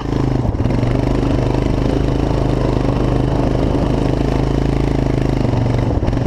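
Four-wheeler (ATV) engine running at a steady, even pitch, with a slight change in its note near the end.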